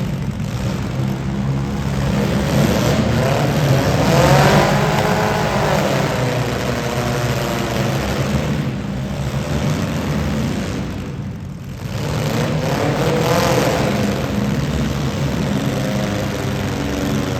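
Demolition derby car engines running. An engine revs up and back down about four seconds in and again about thirteen seconds in.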